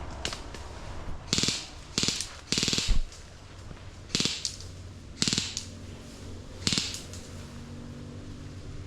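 Airsoft gun firing about six short bursts of rapid fire, each a quick rattle of shots, the longest and loudest just before three seconds in.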